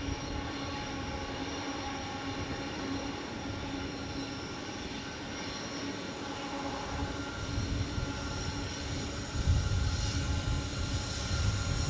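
Empty diesel-hauled coal train running down a steep grade, a steady hum over low rumbling wagon and wheel noise. The rumble swells in the second half as the train draws nearer.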